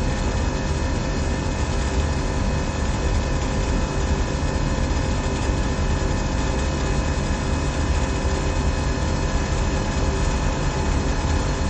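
SystemAir chiller and fan-coil HVAC equipment running steadily: a constant mechanical whir with several steady hum tones, without change.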